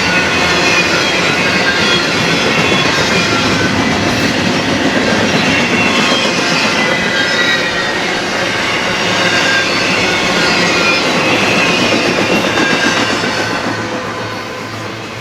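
Freight train cars rolling past on the rails with clickety-clack and short, high wheel squeals, fading away near the end.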